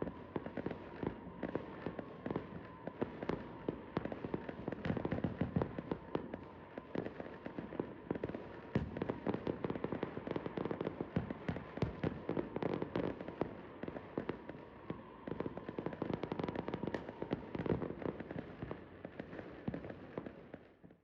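New Year's Eve fireworks going off in a dense, irregular barrage of crackling bangs, many each second, which stops abruptly near the end.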